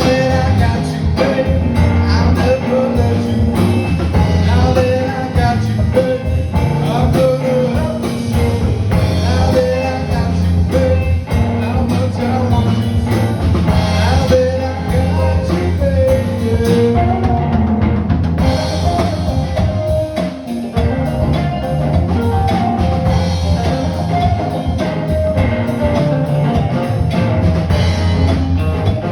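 Live band music with drum kit and guitar, a bluesy song played through the bar's sound system.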